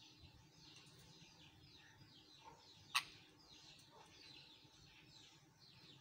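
Faint, repeated high bird chirps, each sweeping downward, about two a second. A single sharp click about halfway through is the loudest sound.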